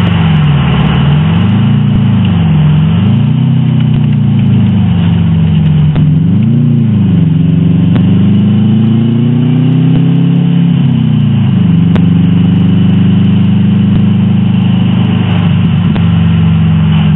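Subaru WRX's turbocharged flat-four engine heard from inside the car while driving uphill. The revs fall and climb again several times over the first eleven seconds or so, then hold at a steady pitch for the rest.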